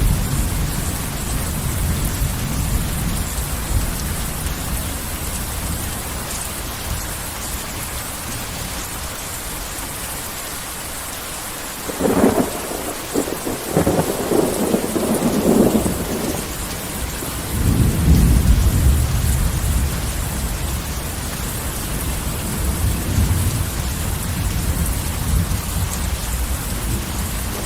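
Heavy rain falling steadily, with a thunderclap a little under halfway through: a sharp crack, then crackling, then a deep rolling rumble that fades back under the rain.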